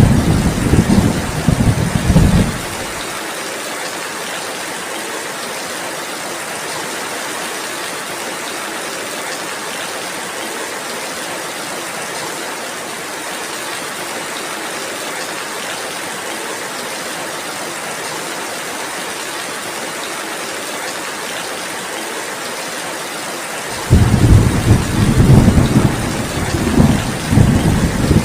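Steady rain falling as an even hiss. A low, rolling rumble of thunder sits over it for the first two and a half seconds, stops, then starts again suddenly about four seconds before the end.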